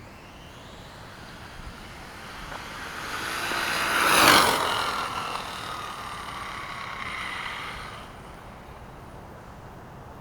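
1/5-scale Redcat Rampage MT radio-controlled monster truck driving past at speed. Its whine builds to a peak about four seconds in, drops in pitch as it moves away, and fades out a few seconds later.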